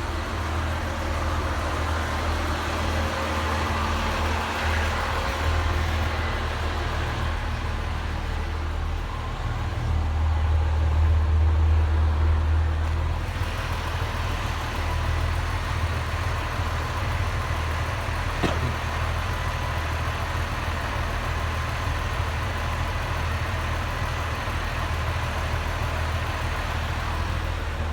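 Heritage diesel train's engine idling with a steady low drone that swells a little around ten to thirteen seconds in.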